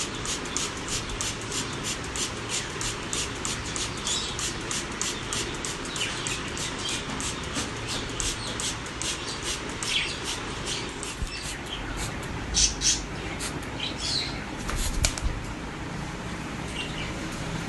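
Ringneck parrot flapping its wings while being showered: rapid fluttering strokes, about four a second, over a steady hiss of water, with a few short chirps.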